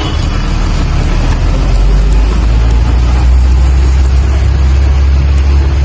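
Steady rain: an even hiss with scattered faint drop ticks over a loud, steady deep rumble.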